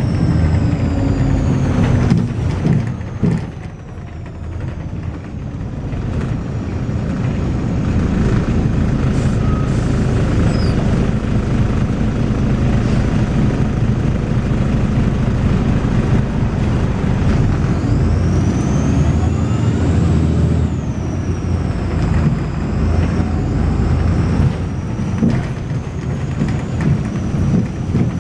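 Volvo B6LE bus engine and ZF automatic gearbox running as the bus drives, a loud, steady low drone that eases briefly a few seconds in and then builds again. A faint high-pitched whine glides up and down near the start and again about two-thirds of the way through: the bus's strange high-pitched noise.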